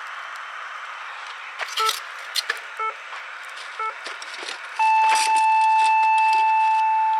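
NHK radio time signal marking the hour: three short beeps a second apart, then one long higher tone, heard through a radio speaker over a steady hiss with scattered sharp pops.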